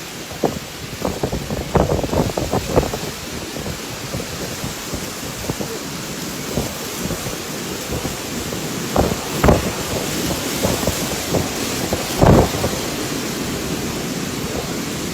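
Storm wind and rain, with gusts buffeting the microphone in irregular thumps over a steady rushing noise; the strongest gusts come about nine and twelve seconds in.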